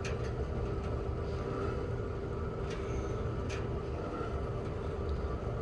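Gas station fuel pump running as gasoline flows into the truck's tank: a steady hum over a low rumble, with a few faint ticks.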